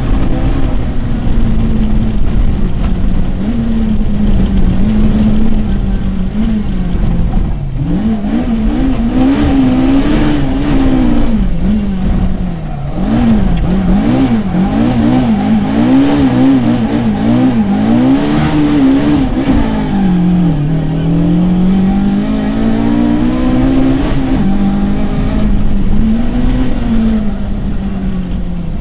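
Rally car engine heard from inside the cabin, driven hard: the revs rise and fall quickly over and over through gear changes and throttle lifts, then drop into a long slowdown about two-thirds of the way in before climbing again.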